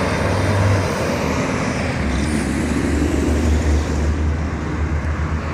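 Truck engines running in a passing caravan: a steady low rumble with traffic noise.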